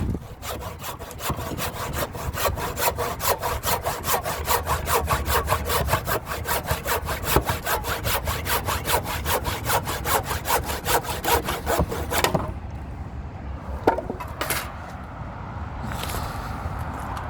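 Handsaw cutting through timber in quick, even strokes, about four a second, stopping about twelve seconds in; a couple of sharp knocks follow.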